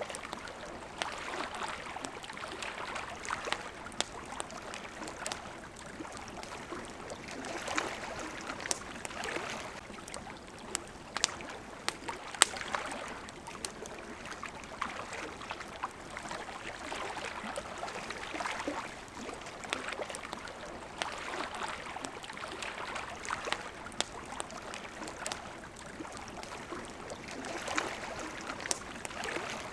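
Small waves lapping at the water's edge in gentle swells every two to three seconds, with the sharp pops and crackles of a wood campfire scattered through it.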